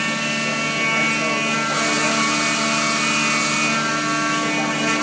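Peddinghaus CNC sawing and drilling line running: a steady machine whine made of many held tones, with a brief hissing swell about two seconds in.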